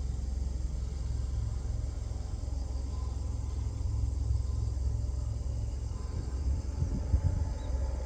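Outdoor background: a steady low rumble with faint, evenly pulsing high-pitched insect chirring over it.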